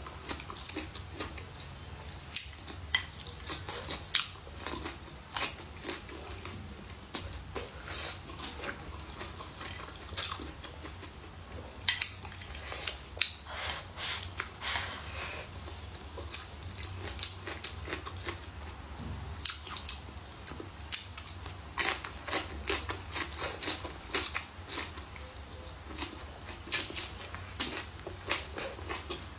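Close-miked chewing and eating of rice with blistered green peppers and braised pork: many short, wet mouth smacks and clicks, over a faint steady low hum.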